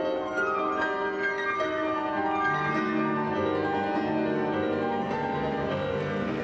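Solo piano music from a figure skater's short program played over the arena sound system, with many notes sounding continuously.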